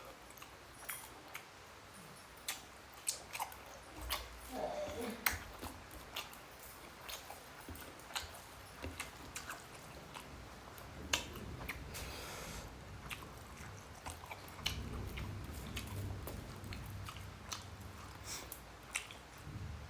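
A person chewing a mouthful of rice and egg curry eaten by hand, with irregular soft clicks and wet mouth noises scattered throughout.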